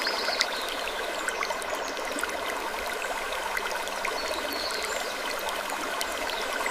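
Steady rushing water like a running stream, with many small ticks and a few brief high squeaks near the start and again near the end.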